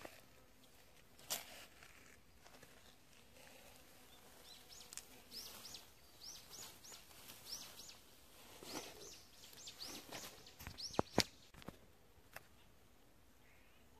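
A small bird chirping over and over, short high calls about twice a second for several seconds, with a few sharp knocks near the end, the loudest sounds here.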